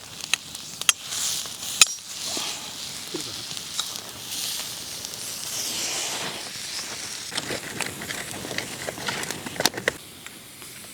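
Goat leg roasting on fire-heated river pebbles: a steady sizzle and hiss with scattered sharp crackles and clicks.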